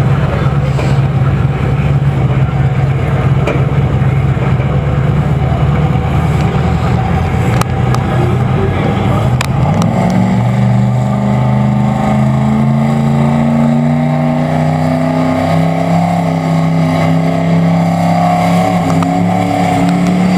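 1965 Ford Mustang drag car's engine running loudly after its burnout. About ten seconds in the revs step up to a higher steady level and creep slowly higher while the car stages at the start line, then begin to rise sharply right at the end as it launches.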